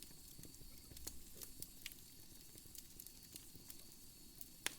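Wood fire crackling faintly in a fireplace: scattered small pops and crackles over a low hiss, with one sharper pop near the end.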